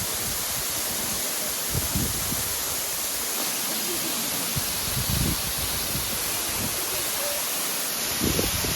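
Steady rush of a 33-metre waterfall heard close up, with a few brief low thumps.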